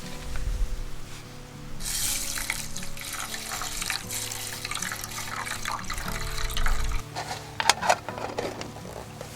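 Water pouring and splashing for about five seconds, starting about two seconds in, over soft background music.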